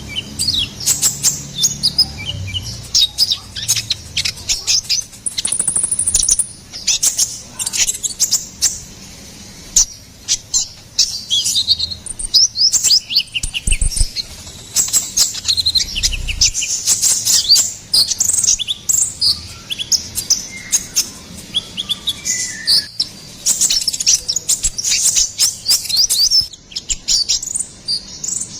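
Kolibri ninja sunbird singing: a fast, high twittering of rapid chirps and short trills, almost without pause.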